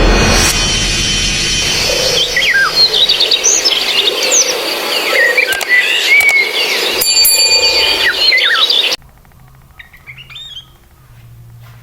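Sooty-headed bulbul (kutilang) chirping and whistling in short rising and falling notes over a loud noisy background. The background cuts off suddenly about nine seconds in, leaving only a few faint chirps.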